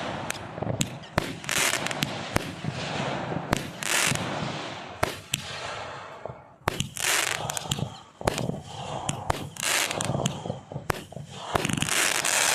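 Aerial fireworks going off: a rapid string of sharp bangs mixed with several longer crackling, hissing bursts.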